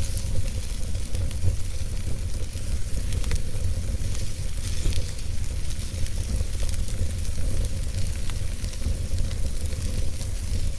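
Wood fire in a fireplace crackling and hissing, with scattered small pops over a steady low rumble of the flames.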